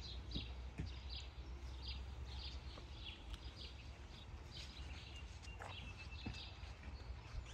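Faint outdoor ambience: birds chirping in short, quick repeated notes, over a low steady rumble.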